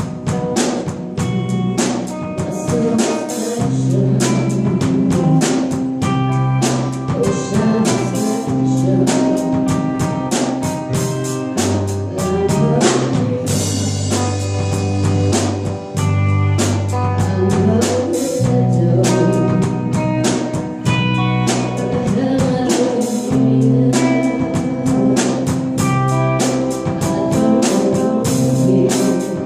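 Live band playing an instrumental passage: a drum kit keeps a steady beat under held electric bass notes and guitar.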